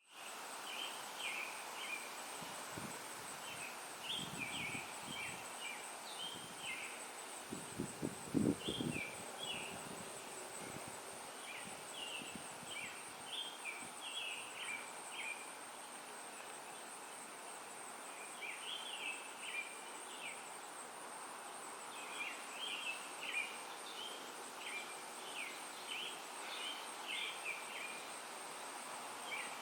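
Songbirds chirping in short, quick bouts over a steady, high-pitched buzz. A few low thumps come around four seconds in and again, loudest, around eight seconds in.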